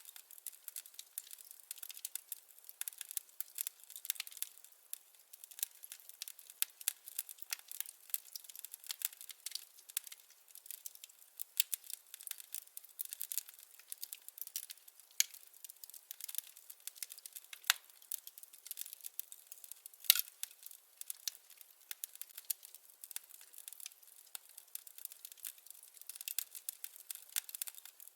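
Wood fire crackling: a dense, irregular run of small pops and snaps, with one louder pop about twenty seconds in.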